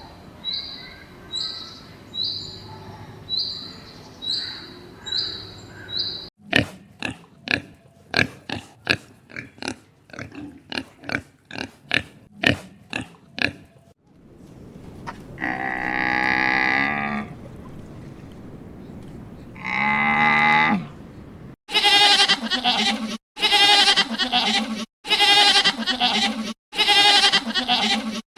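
A run of different farm-animal calls. First come about a dozen short high chirps, then quick grunts in fast succession. Two long wavering calls follow, then a string of loud, evenly repeated calls near the end.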